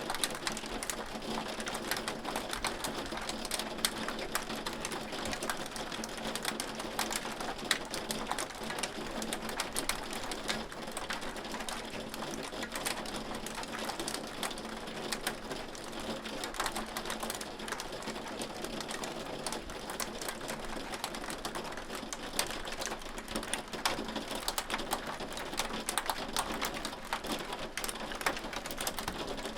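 Hail falling steadily: a dense, even rattle of countless small hard pellets striking a surface.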